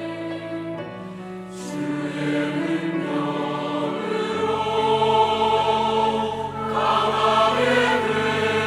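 Church choir singing an anthem with instrumental ensemble accompaniment. It opens on sustained instrumental chords, then the choir comes in louder about one and a half seconds in and the music swells.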